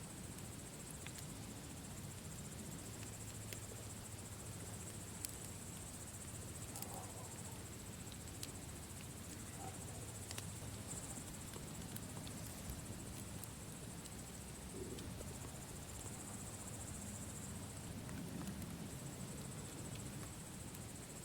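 Campfire crackling, with scattered sharp pops over a low steady rumble, and a steady high insect chirring in the background.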